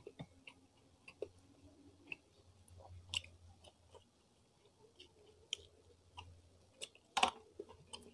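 Close-miked chewing of rice and fried salted fish (ikan peda) eaten by hand, with soft, irregular mouth clicks. A sharper click stands out about seven seconds in.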